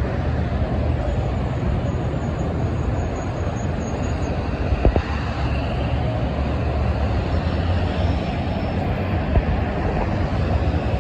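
Steady low rumble of road traffic, with one brief knock about five seconds in.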